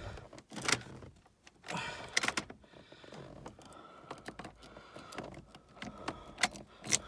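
Keys jangling and a series of sharp clicks as the ignition key of an old farm truck is turned, without the engine catching: the truck will not start.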